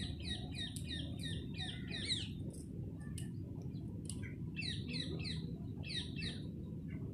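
Small birds chirping in quick runs of short notes, a burst at the start and another about four seconds in, over a steady low background rumble.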